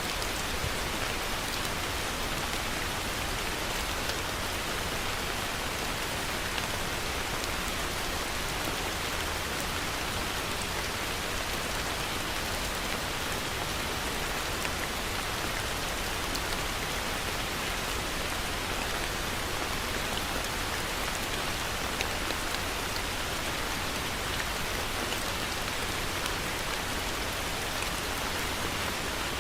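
Heavy rain falling steadily, a dense even hiss of drops on a surface with no let-up.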